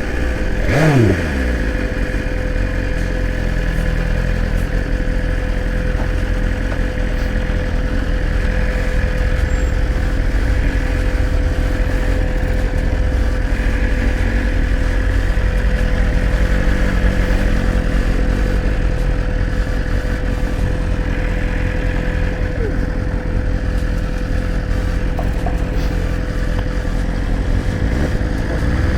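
BMW S1000RR inline-four engine running under way, with steady wind rush. About a second in, an engine note falls sharply in pitch.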